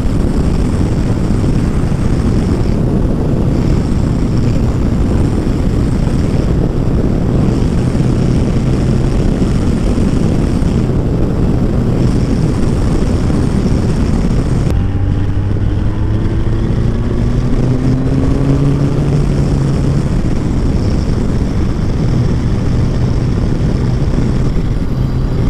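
Kawasaki ZZR1400 motorcycle ridden at road speed: heavy wind rush over the microphone over a steady engine drone. About halfway through the sound changes and the engine note rises in pitch.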